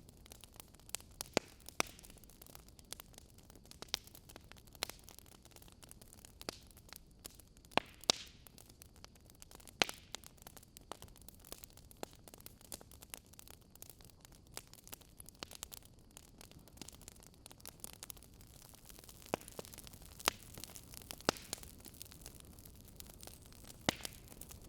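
Wood fire burning with a soft hiss and irregular sharp crackles and pops from the burning logs.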